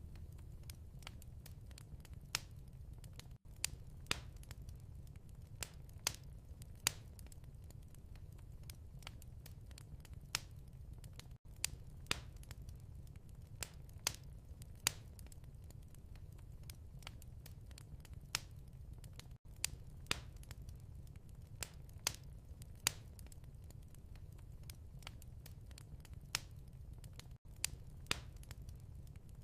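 Wood fire crackling in a fireplace: a steady low rumble with irregular sharp pops and crackles, and a brief dip in level about every eight seconds.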